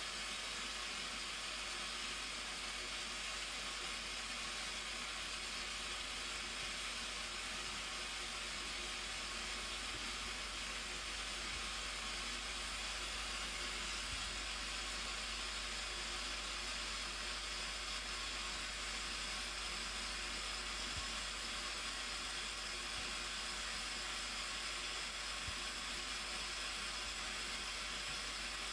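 Steady, unbroken rushing of water falling at the Blue Nile Falls, a waterfall's even roar with no change in level.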